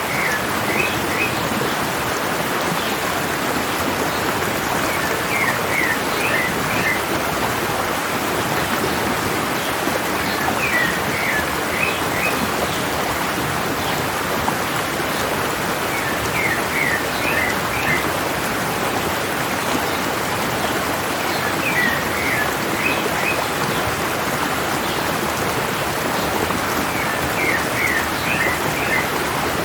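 Steady rush of a stream's running water, with a bird singing a short phrase of four or five quick high notes, repeated about every five to six seconds.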